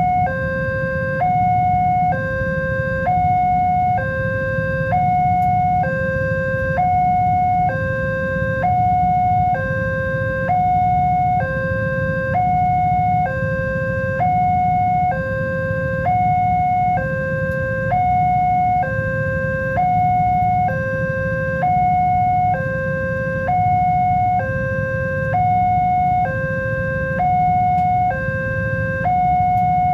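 Railway level-crossing warning alarm sounding a steady two-tone hi-lo signal, switching between a higher and a lower pitch about once a second, over a low rumble.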